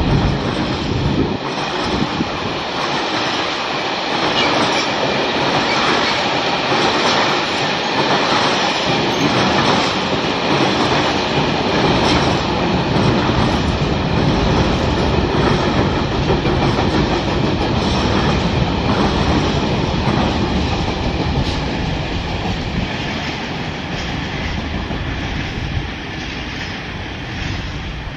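Long freight train of covered wagons rolling past on the rails: a steady rumble and rattle of wheels and wagons, easing off over the last few seconds as the train draws away.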